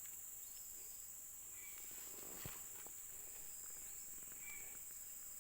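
Steady high-pitched insect chorus, with one short click or rustle about two and a half seconds in.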